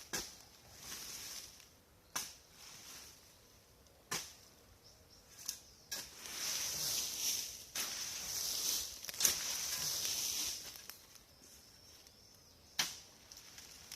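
Fallen branches and brush being cleared by hand: sharp snaps or cuts a couple of seconds apart, with a longer stretch of rustling and scraping in the middle.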